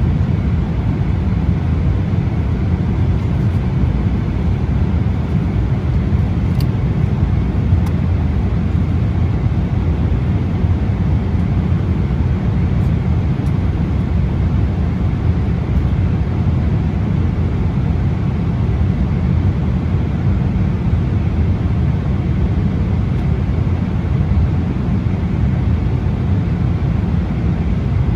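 Steady cabin noise of a Boeing 777-300 airliner in flight: the even, low rush of jet engines and airflow heard from inside the economy cabin.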